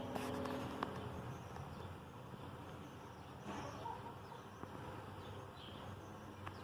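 A GE Profile top-load washing machine's motor hum cuts off with a click just under a second in, leaving a faint steady background with a few short high chirps.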